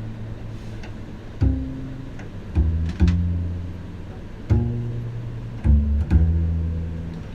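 Double bass strung with gut strings, played pizzicato: about six low plucked notes, each ringing out and fading slowly.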